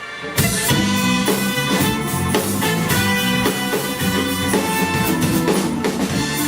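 Live band playing a song with drum kit. There is a brief stop right at the start, then the whole band comes back in together.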